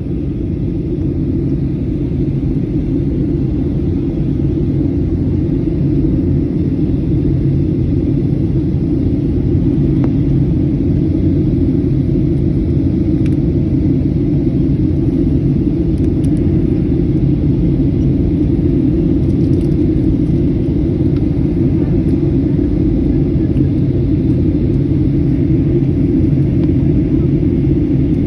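Jet airliner cabin noise heard from a window seat: a loud, steady, deep rumble of engines and airflow, growing a little louder over the first few seconds and then holding even.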